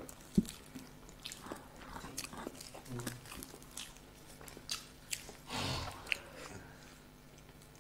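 Close-up chewing and biting of soft masala boiled eggs, with wet mouth noises and scattered sharp clicks, the loudest about half a second in.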